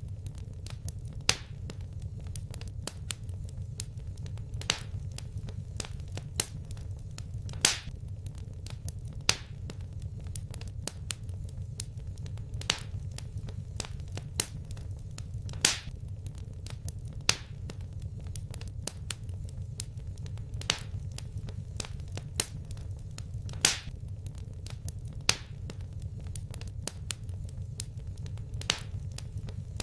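Wood fire crackling in a fireplace: irregular sharp pops and snaps, the louder ones every second or two, over the steady low noise of the burning fire.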